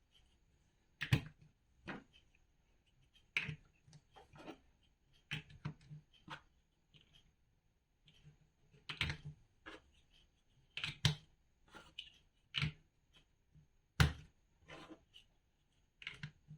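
Large plastic building bricks being handled and pressed together: irregular sharp clicks, snaps and short rattles, with a louder snap about a second in and another near the end.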